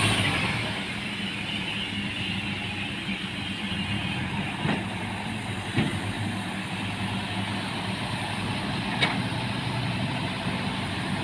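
Truck engine running steadily at low revs, with a few short knocks.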